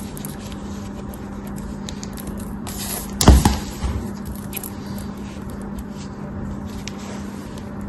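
Kinetic sand and soap being handled and cut: faint scraping and small clicks over a steady low hum, with a short hiss and then one sharp, loud knock a little past three seconds in, followed by a smaller knock.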